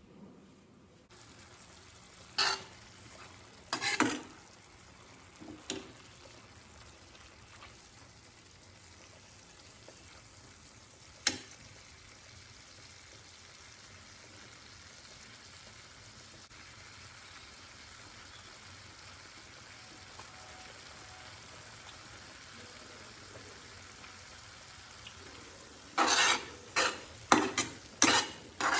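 Chopped banana flower stir-frying in a pan: a steady faint sizzle, with sharp clacks of the spatula against the pan a few times and a quick run of them near the end.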